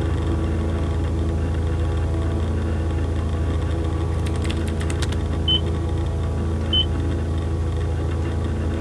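A steady low droning hum. About four seconds in comes a short run of clicks, then two short high beeps about a second apart.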